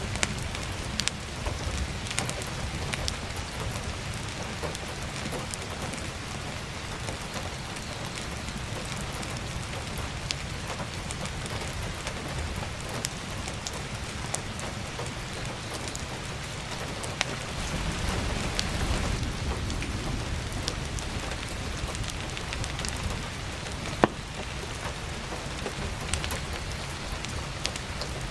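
Steady heavy rain on a roof and skylight, with scattered crackles and pops of burning firewood and one sharper pop about 24 seconds in. A low rumble swells underneath about two-thirds of the way through.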